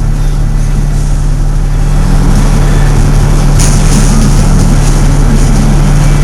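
Fire truck's diesel engine running with a loud, steady drone, getting a little louder about two seconds in, with a few short sharp clicks from about three and a half seconds in.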